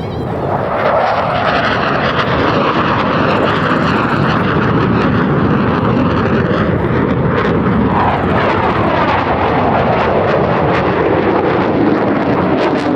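Loud, continuous jet noise from Blue Angels F/A-18 Super Hornet jets in flight, with the pitch falling in the second half as they pass.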